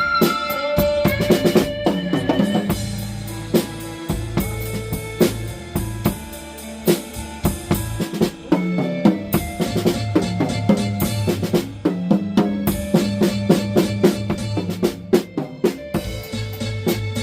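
Drum kit played along to a blues backing track: dense kick and snare strokes with fills, over a sustained bass line.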